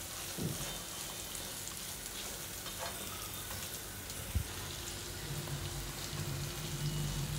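Diced carrots sizzling gently in hot oil in a kadai while a silicone spatula stirs them, with a single light knock of the spatula on the pan about four seconds in.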